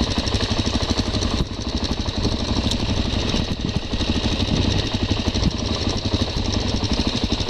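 A motorcycle engine running steadily with a fast, even pulse, with a constant hiss over it.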